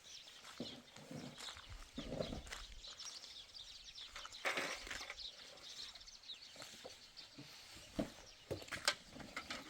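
Livestock moving about, with scattered footsteps, knocks and a brief rustle about halfway through.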